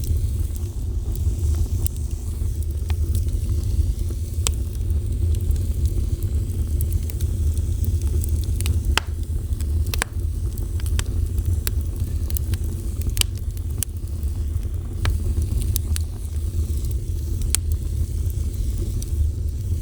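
Wood fire burning with a steady low rumble of flame and scattered sharp crackles and pops.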